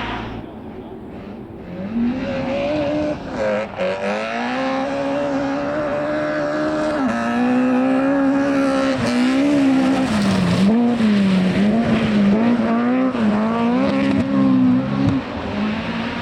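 Rally car engine revving hard on a stage. The note climbs about two seconds in, holds high, then rises and falls repeatedly as the throttle is worked in the second half.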